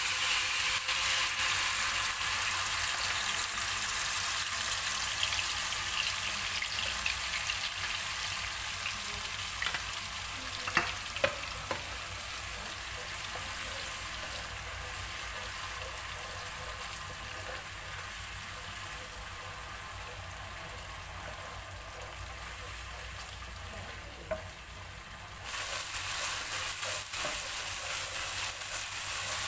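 Ground spice paste sizzling as it fries in hot oil in a ceramic-coated pan while a wooden spatula stirs it. The sizzle starts suddenly as the paste hits the oil and eases slowly. There are two sharp knocks about eleven seconds in, and the sizzle grows louder again about twenty-five seconds in.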